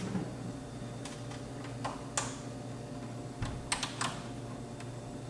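A handful of light, irregular clicks and taps of small hard parts being handled inside an opened AV receiver, with a quick cluster of three near the end, over a steady low hum.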